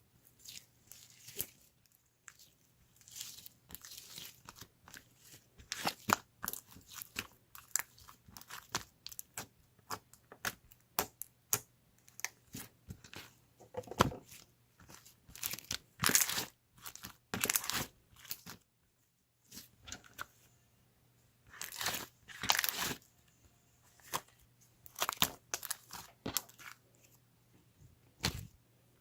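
Close-up crunching, crinkling and tearing sounds in irregular short bursts, with a brief pause about two-thirds of the way through.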